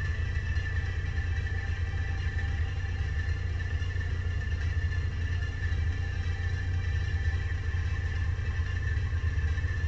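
Ford Escort XR3i 1.8 16v's four-cylinder engine idling steadily with a low rumble, with a steady high-pitched whine alongside it.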